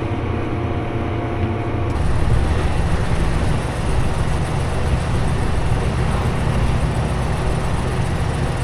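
Tractor engine running steadily. About two seconds in, the sound changes abruptly to a louder, rougher engine sound.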